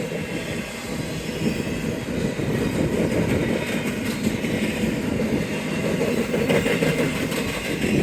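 BNSF intermodal freight train's cars rolling past at close range: a steady rumble and clatter of steel wheels on rail.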